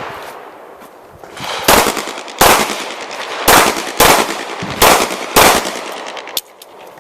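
Six pistol shots fired in three quick pairs, each pair about half a second apart, each with a ringing echo: a competitor engaging targets with double taps on a USPSA course of fire.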